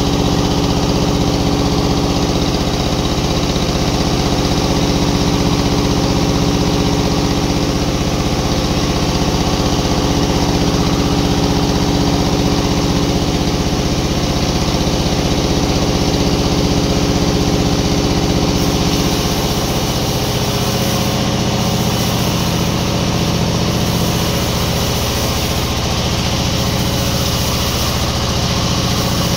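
Sawmill machinery running steadily with a loud engine-like hum, its tone changing about two-thirds of the way in.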